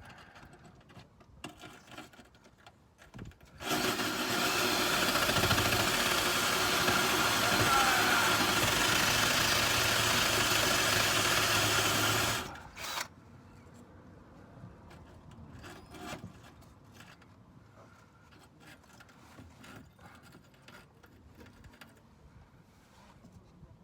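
Rotary power tool with a small abrasive wheel running steadily for about nine seconds, scouring surface rust from a car's underbody, then cutting off suddenly. Faint clicks and handling noises come before and after it.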